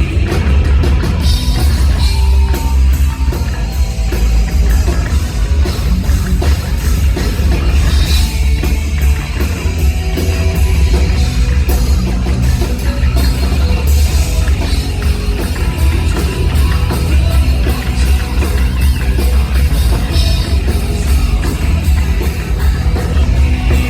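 Live hard rock band playing loud: a heavy, booming bass and a drum kit with cymbal crashes under dense guitar.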